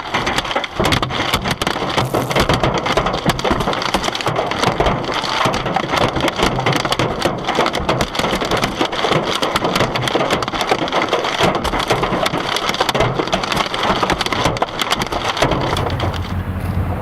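Hailstones pelting a car, a dense, rapid patter of hard impacts. A little before the end the patter gives way to a steadier sound with a low hum.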